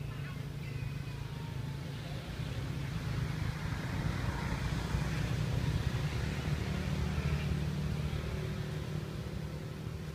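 A steady low engine hum that grows louder through the middle and then eases off, like a vehicle passing.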